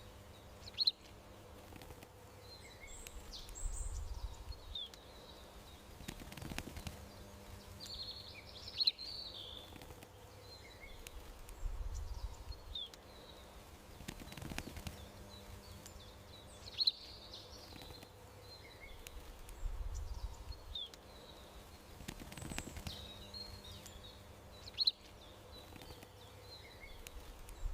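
Garden ambience of small birds chirping in short, high calls, scattered throughout. A few sharp clicks stand out as the loudest moments, over a faint steady hum and low rumbles.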